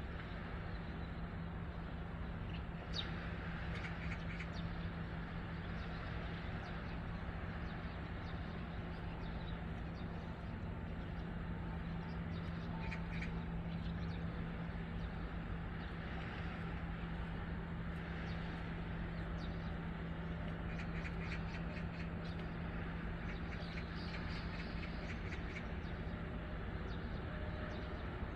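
Birds calling in short scattered bursts over a steady low hum and background noise.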